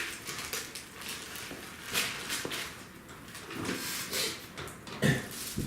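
Wood fire crackling, with irregular sharp pops and snaps, and faint murmured voices about four seconds in.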